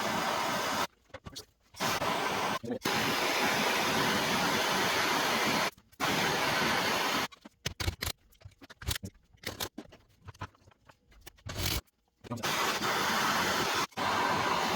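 Steady rushing hiss of a heating tool warming the steering stem bearing so it will come off the stem. It breaks off abruptly several times. During one longer gap near the middle there are only a few light knocks and scrapes.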